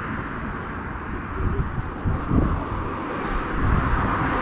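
Road traffic running steadily across the bridge, with wind buffeting the microphone; it grows louder near the end.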